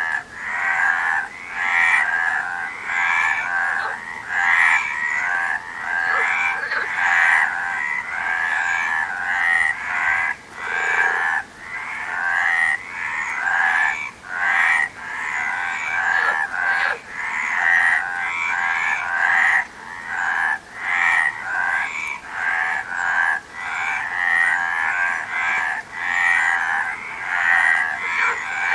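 A chorus of frogs croaking, many overlapping calls pulsing about once a second.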